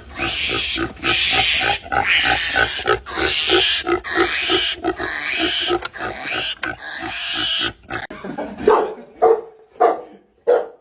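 An animal making fast, regular, rough sounds, with a noisy burst about once a second, then four short separate calls near the end.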